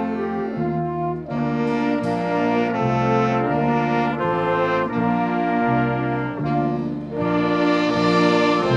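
Brass ensemble playing held chords that change about every half second over a stepping bass line.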